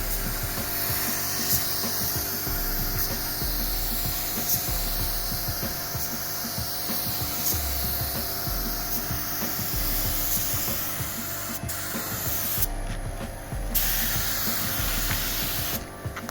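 Steady hissing and rubbing body-shop work noise, the kind made by spraying or sanding panels. It breaks off for about a second near the end of the second quarter from the finish and again at the very end, with music underneath.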